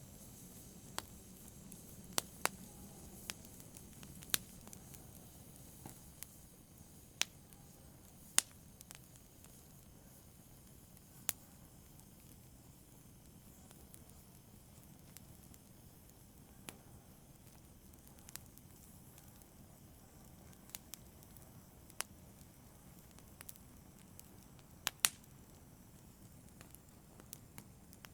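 Fire crackling: sparse, sharp pops at irregular intervals over a faint low hiss.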